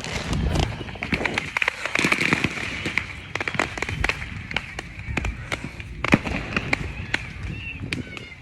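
Firecrackers popping in rapid, irregular volleys, many sharp cracks a second, over a steady hiss.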